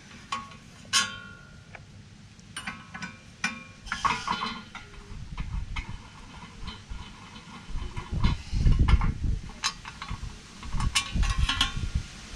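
Scattered metallic clicks and clinks, some ringing briefly, of hand tools, small bolts and a thin sheet-metal plate being handled while the plate is unbolted from a car's rear hub assembly. A low rumbling clatter comes a bit past the middle.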